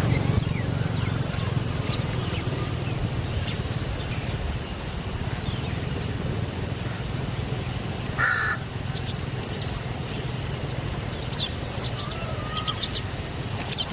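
Wild birds calling: scattered short high chirps, with one louder harsh call about eight seconds in, over a steady low rumble.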